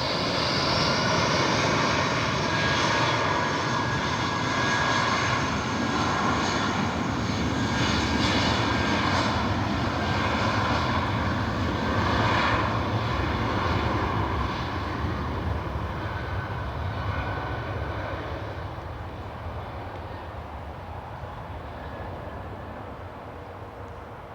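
QantasLink Airbus A320-family jet airliner taking off, its engines at full thrust with a loud rushing noise and a whine, fading away over the last several seconds as it climbs out.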